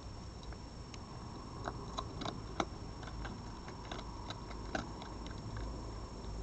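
An animal crunching dry food: irregular sharp crunches and clicks, the loudest about two and a half seconds in, over a steady low hum.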